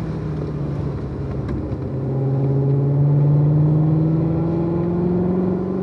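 Chevrolet Corvette C7 Z06's supercharged 6.2-litre V8 under way: its note sags a little, then from about two seconds in climbs steadily and grows louder as the car accelerates.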